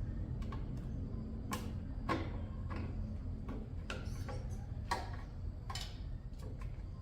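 Irregular clicks, taps and clinks of hand tools on a motorbike's metal parts during a repair, some ringing briefly, over a steady low rumble.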